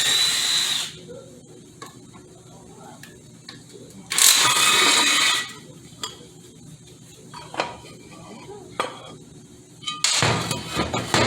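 Metal transmission parts and hand tools clinking and scraping during disassembly, with three louder scraping stretches of about a second each: at the start, about four seconds in, and near the end.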